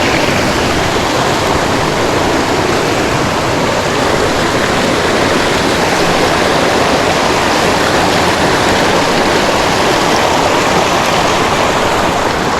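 Creek water rushing steadily over rocks, a loud, even rush with no breaks.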